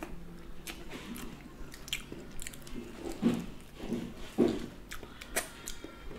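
Close-miked eating: wet chewing and biting of smoked mackerel and lightly salted cucumber. Several louder bites come in the middle, and a sharp click comes near the end.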